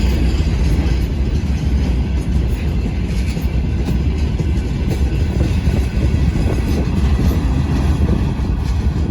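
Train passing close by, a steady loud low rumble.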